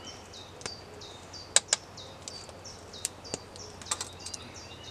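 A bird chirping over and over, about three short, high, falling chirps a second. Over it come a few sharp clicks and knocks of gloved hands handling a metal camping pot and its gear while packing nettles in, the loudest two close together about one and a half seconds in.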